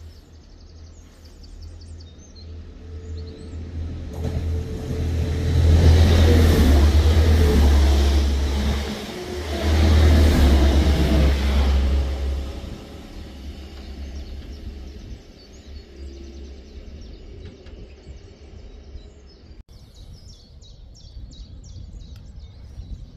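Two coupled Class 185 diesel multiple units approaching through the station: a low rumble that swells loud from about five to twelve seconds in, then dies down. Birds chirp near the start and again over the last few seconds.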